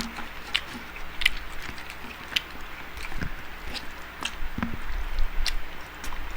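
Close-miked chewing of food, with irregular crisp crunches and clicks and wet mouth sounds.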